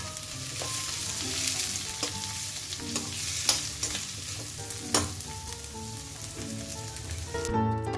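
Sliced onions and chopped okra sizzling in a stainless-steel kadai, stirred with a metal spatula that scrapes and clinks against the pan. Near the end the frying cuts off and background music starts.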